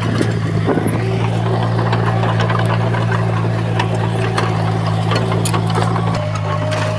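Heavy diesel engine of earthmoving machinery running steadily, with many scattered sharp metallic clicks and clatters over it. The engine note shifts slightly about six seconds in.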